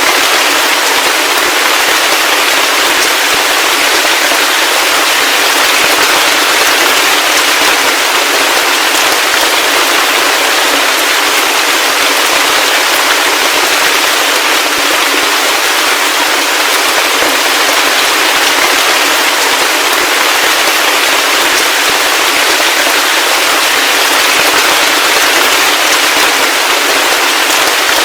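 Steady heavy rain: a dense, even hiss of countless drops with a fine crackling patter, and no deep tones underneath.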